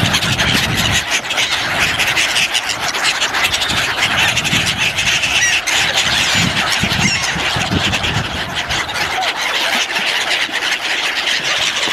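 A large flock of birds calling all at once: a dense, unbroken clamour of many overlapping calls.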